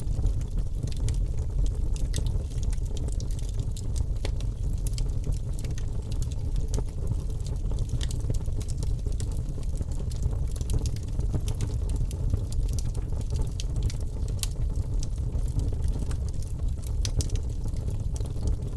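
Wood fire in a fireplace crackling, with frequent small sharp pops over a steady low rumble of the burning.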